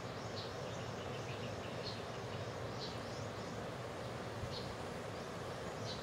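Short, high bird chirps, about five spaced a second or so apart, over a steady background hiss.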